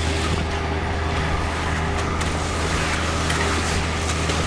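Heavy diesel engine of the concrete-pour machinery running steadily at a constant speed, a low even drone.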